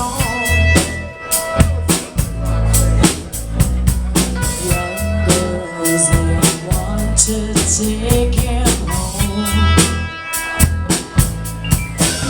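Live rock band playing an instrumental passage with no vocals: a drum kit keeps a steady beat on bass drum and snare under bass and sustained guitar or keyboard notes.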